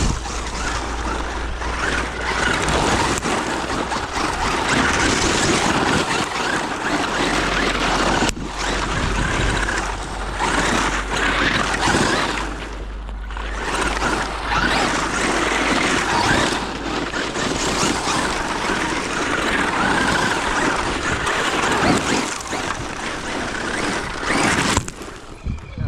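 Traxxas UDR radio-controlled trophy truck running on dirt: a steady rushing noise from its tyres and drivetrain, broken by short dips about six, eight and thirteen seconds in.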